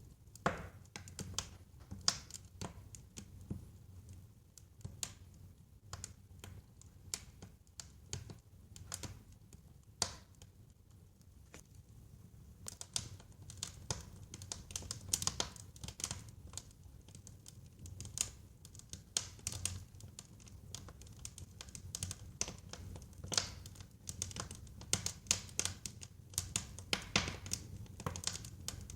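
Wood fire burning in a fireplace: irregular sharp crackles and pops over a low, steady rumble of the flames. The crackling gets busier about halfway through.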